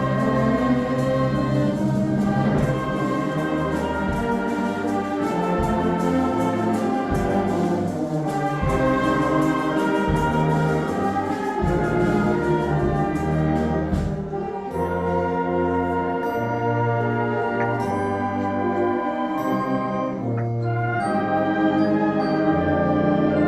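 Band music with brass instruments playing sustained melody lines over a moving bass line.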